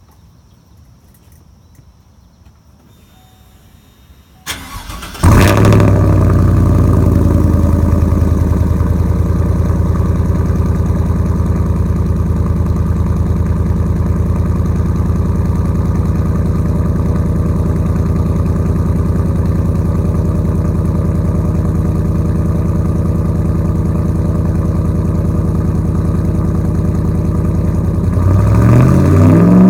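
2016 GMC Sierra's 5.3-litre V8 with a Carven R exhaust on 3-inch pipes cranking about four and a half seconds in, catching loudly and settling into a steady deep idle. Near the end the engine revs up briefly.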